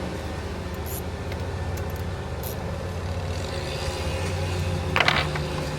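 Engine idling steadily with a low, even hum, and a short metallic clatter about five seconds in.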